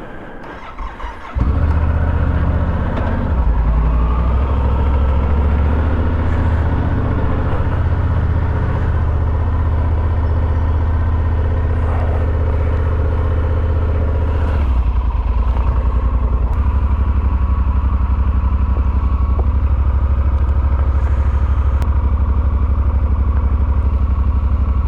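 Motorcycle engine starting about a second in, then running steadily; its note changes a little over halfway through.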